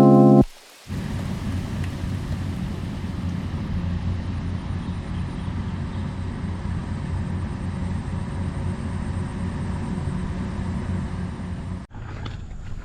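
A rice combine harvester's engine running steadily, a low even rumble. A snatch of music ends about half a second in, and the rumble cuts off near the end.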